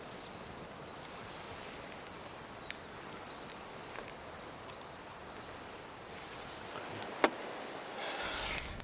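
Outdoor woodland ambience: a steady soft hiss with faint bird chirps and a few small clicks, one sharp click about seven seconds in. Near the end a campfire's crackling comes in.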